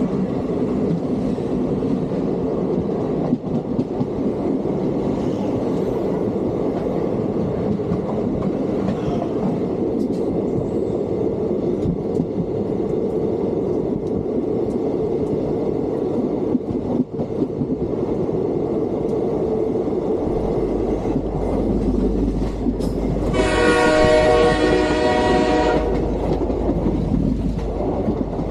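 Steady rumble and rattle of a suburban electric train running along the track, heard at an open carriage door. About 23 seconds in, a train horn sounds for roughly two and a half seconds.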